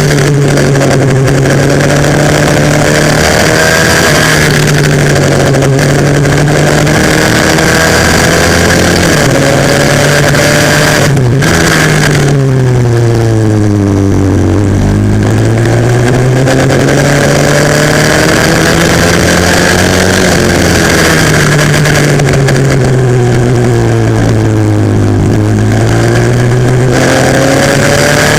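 Pit bike's 140cc single-cylinder four-stroke engine heard onboard at race pace. It revs up and down as the bike laps, with a brief cut in the sound about eleven seconds in, then deep falls in pitch at about fourteen and twenty-five seconds before it climbs back up each time.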